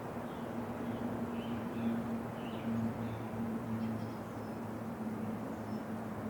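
Steady winter wind blowing, with a constant low hum under it and a few faint high bird chirps scattered through.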